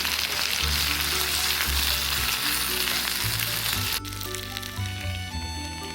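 Food sizzling in a hot pan, a dense steady hiss, over background music with a bass line; the sizzle cuts off suddenly about four seconds in, leaving only the music.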